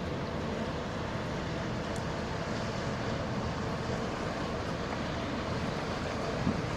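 Steady rumble of the departing cruiseferry Cap Finistère, her diesel engines and the water she moves, with wind on the microphone that turns gustier near the end.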